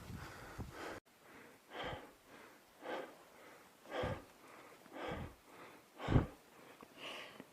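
A mountaineer's heavy, rhythmic breathing while climbing at high altitude, about one hard breath a second.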